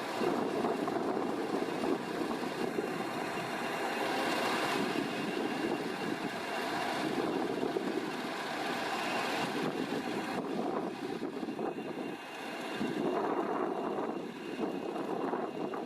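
English Electric Class 20 1000 hp diesel-electric locomotive running, a continuous engine sound with a faint steady whine above it and a short dip in level near the end.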